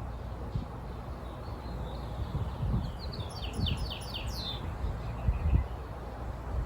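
A songbird sings one short phrase of about six quick, falling notes a little past the middle, over a steady low rumble with a few dull thumps.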